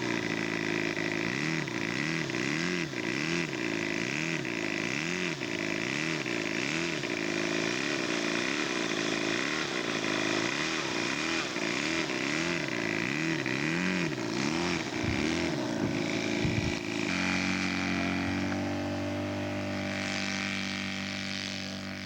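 Engine of a radio-controlled scale model aircraft running, its pitch rising and falling rapidly over and over for most of the time, then settling about three-quarters of the way through into a steady drone.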